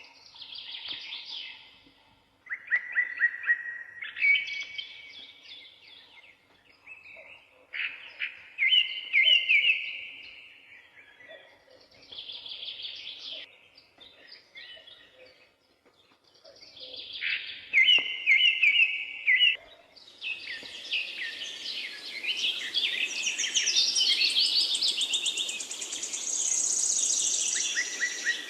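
Songbirds singing short, trilled song phrases, a few seconds apart. About two-thirds of the way through, several birds sing at once over a steady rushing noise.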